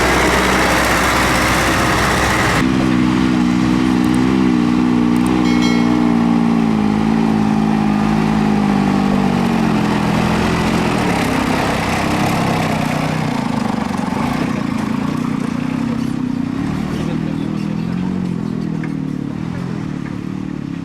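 Tractor engines at a show. About two and a half seconds in, the sound cuts abruptly from a loud, hissy engine-and-crowd noise to an engine hum whose pitch slowly falls, then wavers up and down.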